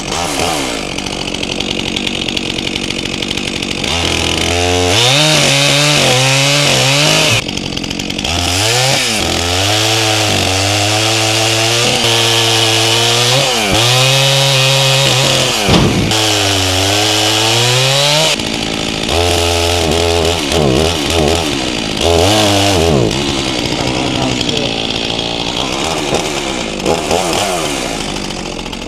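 Stihl MS400C two-stroke chainsaw with a 28-inch bar bucking logs into firewood rounds. It revs up again and again, with the engine pitch sagging as the chain bites into the wood and climbing back between cuts, then drops back toward idle near the end.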